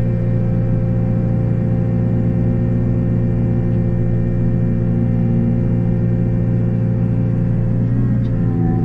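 Takeuchi TB285 mini excavator running steadily at working speed, powering a hydraulic rotary brush cutter on its boom: an even, unbroken machine drone.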